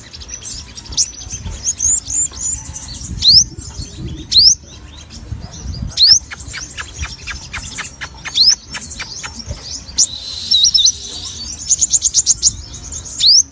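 A sogon songbird singing energetically: a busy string of sharp high chirps and quick rising whistled notes, with a fast rapid-fire run of chirps near the end.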